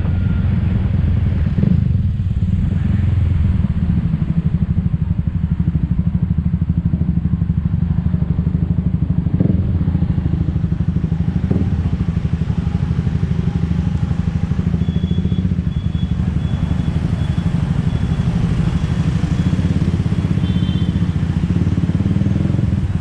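Motor scooter engine running steadily while riding, a continuous low pulsing engine note with road and wind noise. Faint high tones sound briefly in the second half.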